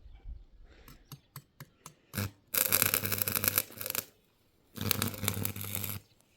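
A power tool running in two bursts, the first about two seconds long and the second about one, each starting and stopping sharply. A few light clicks come before it.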